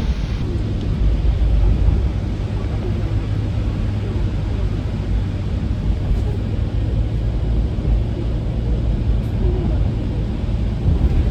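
Steady low rumble of a car driving along.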